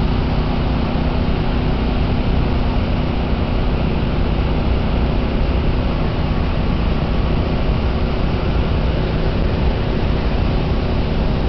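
The Deerfield River in flood, a steady loud rush of fast floodwater with a deep rumble underneath and no let-up.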